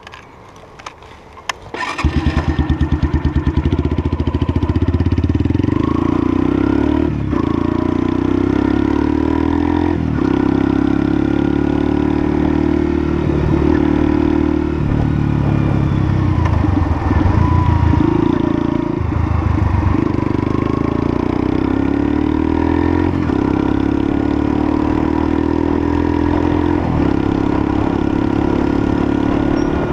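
A few clicks, then a Lexmoto LSM 125's 125cc single-cylinder engine starts about two seconds in and keeps running, its pitch changing a little now and then.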